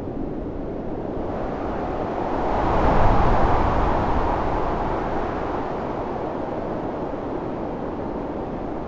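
Storm wind blowing steadily, with one gust that swells to a peak about three seconds in and then dies away.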